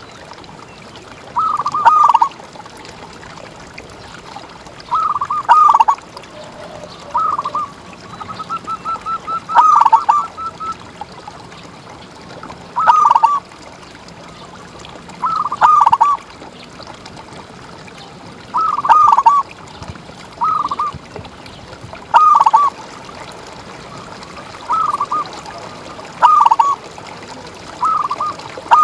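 Zebra dove (perkutut) cooing: short rolling phrases repeat every two to three seconds, with a quick run of staccato notes about a third of the way through, over a faint steady hiss.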